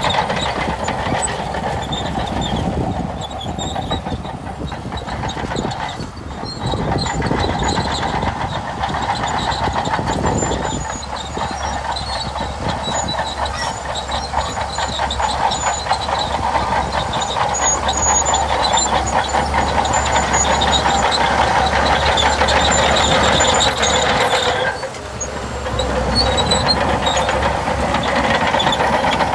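Crawler bulldozer working: diesel engine running steadily under load over a dense clanking of steel tracks, with a short dip in level about 25 seconds in.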